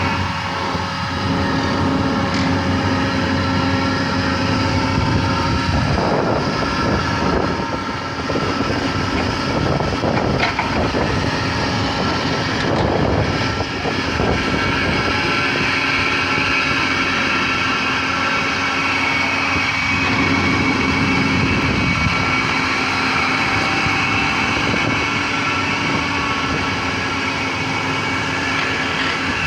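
Excavator running with its hydraulic compactor attachment working: steady, loud machine noise with an engine hum, changing somewhat in texture for a few seconds in the middle.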